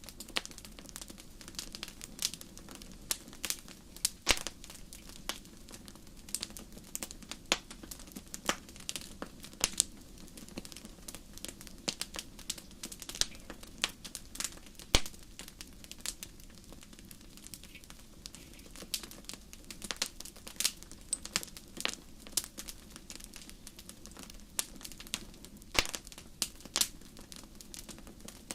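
Wood fire burning in a fireplace: irregular sharp crackles and pops over a steady low hiss of flame.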